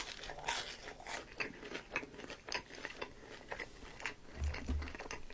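Biting into and chewing a McDonald's chicken nugget: soft, irregular crunches of the fried breading, with a short low hum near the end.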